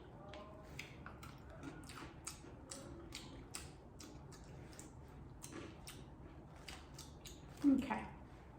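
Crunchy chewing of Takis Fuego stick snacks close to the microphone: irregular, sharp crunches, a few each second.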